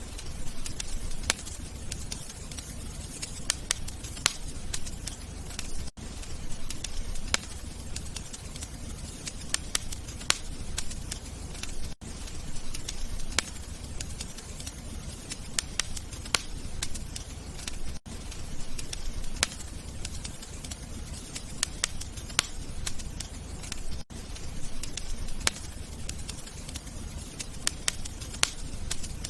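Wood fire crackling: irregular sharp pops and snaps over a low, steady rumble, with a brief dropout about every six seconds where a short recording loops.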